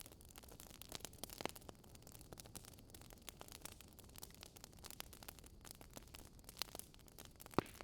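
Wood fire crackling: many small, irregular pops and snaps over a low, steady hiss, with one louder pop near the end.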